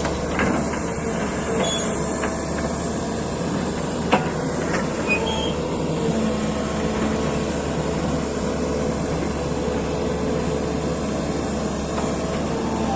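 Excavator's diesel engine and hydraulics running steadily, with a faint whine and a single sharp knock about four seconds in.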